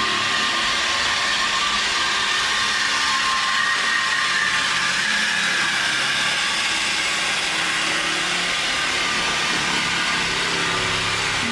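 Steady, loud mechanical whir with a hiss, from shop machinery running without a break; it cuts off suddenly at the end.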